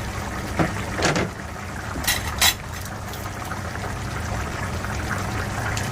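Pot of pork humba simmering, its soy-and-sugar sauce bubbling as it reduces and thickens, over a steady low hum. A few sharp clinks of a utensil against the pot come in the first half, two of them close together about two seconds in.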